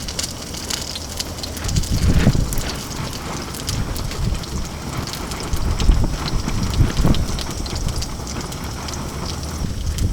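Wind gusting against the tent and microphone, with low rumbling surges, over a continuous crackling sizzle of salmon frying in a pan on a low propane flame.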